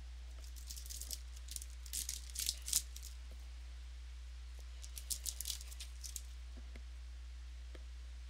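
Trading cards being handled, sliding and scraping against one another in two short flurries of crisp rustling, over a steady low electrical hum.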